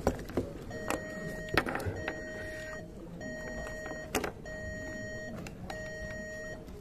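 An electronic tone that repeats about every 1.2 seconds, each beep a little under a second long with short gaps, starting about a second in. Over it come sharp knocks and rattles from a headset and its cord being handled, the loudest near the start and about a second and a half and four seconds in.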